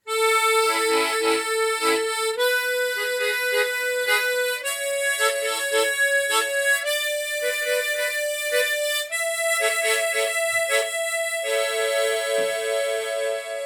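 Harmonica in the key of A played with the slow go-go bass technique: each melody note is held while short rhythmic chord chops pulse beneath it. The melody climbs one note about every two seconds and drops back down near the end.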